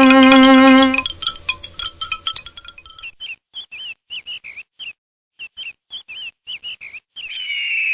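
Bowed-string music ends about a second in, giving way to a bird's short chirps repeated about twice a second. A louder hissing sound with a falling tone begins near the end.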